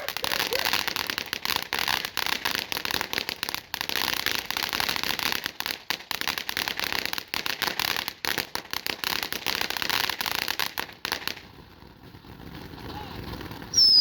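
A ground fountain firework sprays with dense, rapid crackling, then cuts off suddenly about eleven seconds in.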